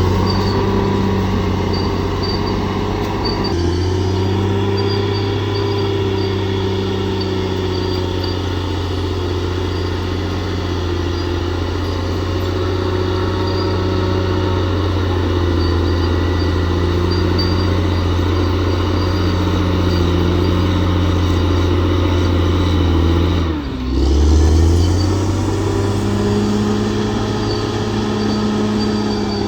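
Bulldozer's diesel engine running steadily under load. Late on, the engine speed dips briefly and then picks back up.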